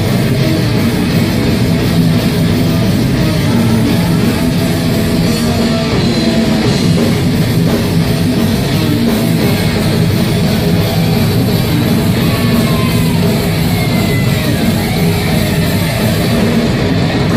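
Live rock band playing loud, heavy music: electric guitar and drum kit at a steady, high level.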